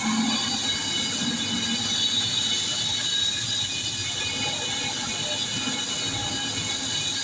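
Laser tube-cutting machine running: a steady mechanical hiss with several high, steady whines over it.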